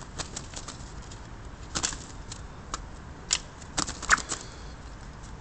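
A blackbird fluttering its wings while being handled and released from a trap: scattered short rustles and clicks.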